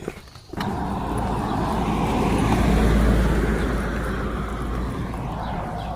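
A car driving past on the road, its tyre and engine noise starting abruptly, swelling to a peak about three seconds in, then slowly fading.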